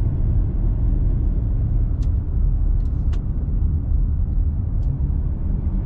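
Steady low rumble of a car driving uphill, engine and tyres on the road heard from inside the cabin, with a few faint clicks.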